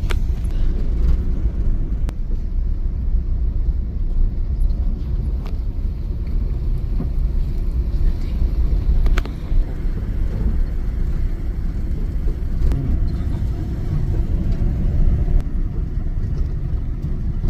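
A car driving at low speed, heard from inside the cabin: a steady low rumble of engine and tyres on the road, with a few light ticks or rattles.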